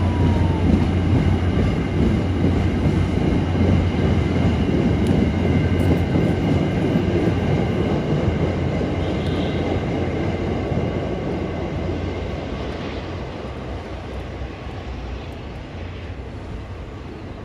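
MBTA commuter rail train's passenger coaches and trailing cab car rolling past on the rails, a steady low rumble and hum that fades away over the last several seconds as the train leaves.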